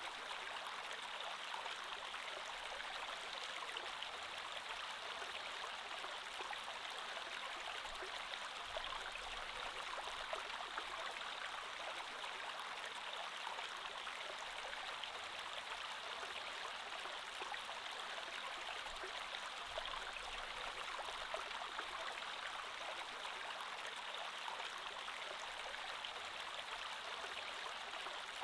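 Creek water flowing steadily over rocks: an even rush of water with fine splashing and gurgling.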